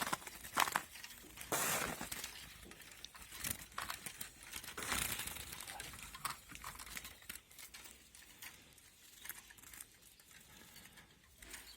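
Irregular rustling, scraping and light clicks of hands handling a caught bird, with a noisy scrape every second or so.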